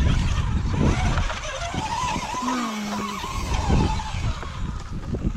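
Radio-controlled rock crawler's electric motor and gears whining as it is driven, the pitch wavering up and down with the throttle, over heavy wind rumble on the microphone.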